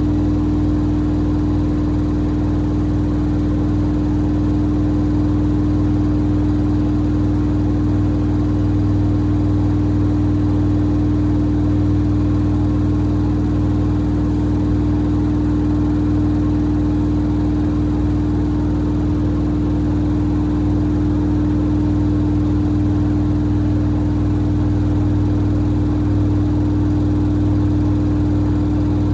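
Samsung WD70T4047CE washer-dryer running through its cycle while washing sneakers: a steady motor hum with one constant tone over a low rumble, unchanging throughout.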